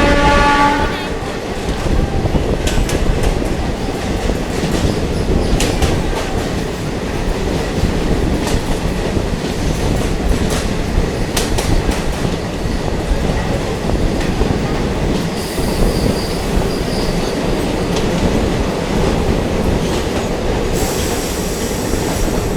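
Diesel multiple unit train running on the rails, a steady rumble with scattered clicks from the wheels. A brief pitched sound comes right at the start, and thin high squeals come in about two-thirds of the way through and again near the end.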